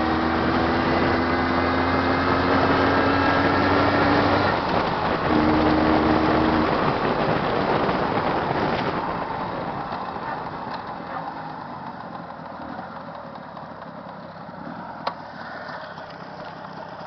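Jawa 638's 350 cc two-stroke twin engine running hot under way, its note rising slightly, breaking off briefly about four and a half seconds in as if for a gear change, then picking up again. From about seven seconds in the engine sound eases off and grows quieter, with a single sharp click near the end.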